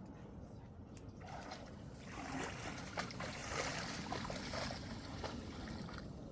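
Stream water splashing and trickling for a few seconds over a low, steady rumble.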